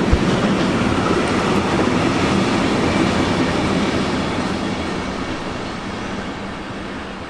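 A train passing on the line, a steady loud rumble of wheels and running gear. It fades slowly in the second half as the train moves away.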